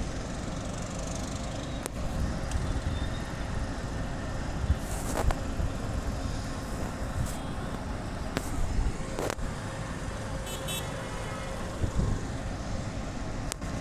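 Road traffic noise: a steady rumble of vehicle engines and tyres, broken by a few sharp knocks and, past the middle, a brief series of quick high pips.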